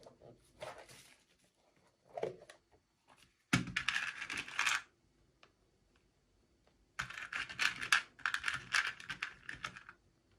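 Packaging being handled and torn open in bursts: crackly rustling and tearing, loudest once briefly a few seconds in and again over about three seconds near the end, with small clicks.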